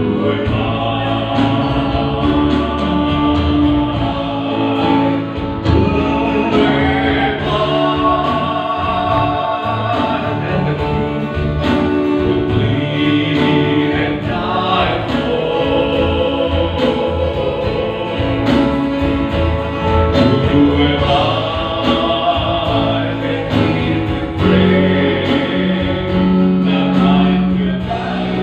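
Gospel-style song: singing over a guitar accompaniment, the voice line moving continuously throughout.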